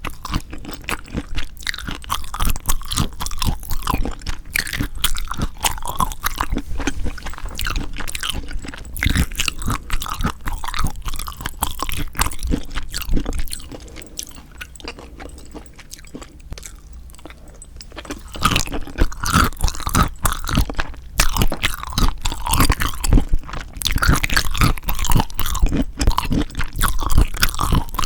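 A person eating spicy marinated raw shrimp (yangnyeom saeujang) close to the microphone: a dense run of wet chewing and biting sounds. It eases off to a quieter stretch around the middle, then picks up again.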